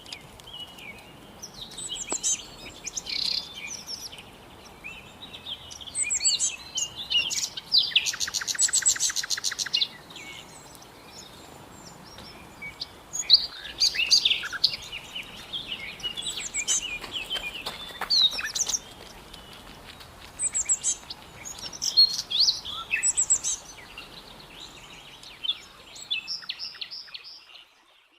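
Several birds singing and calling: a dense mix of high chirps and short whistled phrases, with a fast buzzy trill about eight seconds in that lasts about two seconds.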